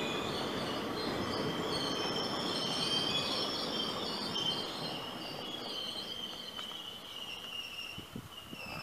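Blue ICF passenger coaches of an Indian express train rolling past on the rails. The wheel and coach rumble fades over the second half as the last coach draws away, with a high wavering whine above it.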